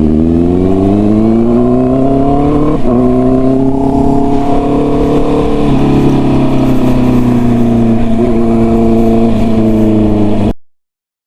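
Honda CB650R inline-four through a full-system aftermarket exhaust, accelerating with its pitch climbing, then shifting up about three seconds in and again about six seconds in before holding a steady cruise. The sound cuts off suddenly near the end.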